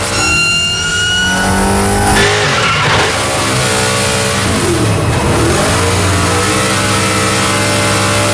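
Drift cars' engines revving hard at high rpm while sliding, the pitch climbing early on and then dipping and rising twice as the cars sweep through the corners.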